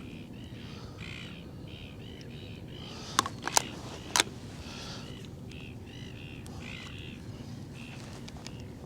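Birds calling outdoors in a long run of short repeated calls, with three sharp clicks a little past a third of the way through.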